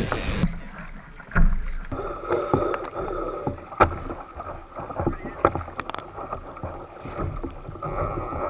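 Irregular knocks and water sloshing on a fishing kayak, with a faint steady whine from about two seconds in, while a small hooked fish is played on rod and reel.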